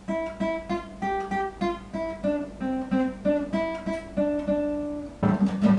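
Acoustic guitar being played: a picked melody of separate single notes over low bass notes, changing to strummed chords about five seconds in.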